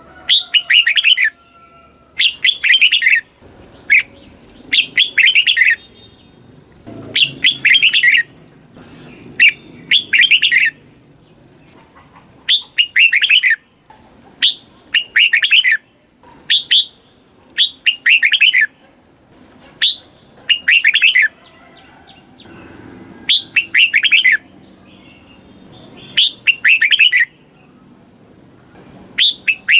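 Red-whiskered bulbul singing: short, quick warbled phrases of about a second each, repeated every second or two with brief pauses between.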